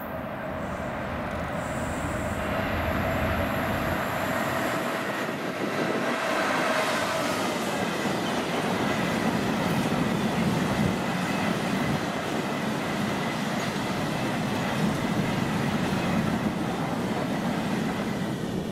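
Class 66 diesel freight locomotive, with its two-stroke V12 engine, running through the station without stopping, then the long rumble of its freight wagons rolling past on the rails. The sound grows louder over the first few seconds as the train arrives.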